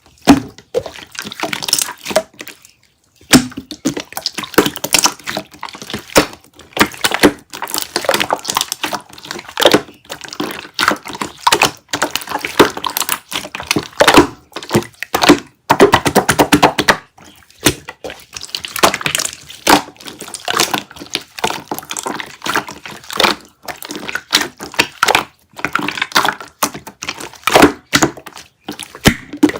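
Wet, watery slime being squished and poked by hand: a steady run of sticky clicks, pops and squelches, pausing briefly about three seconds in.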